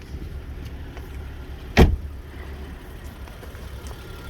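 BMW 335 engine idling as a steady low rumble, with one sharp knock a little under two seconds in.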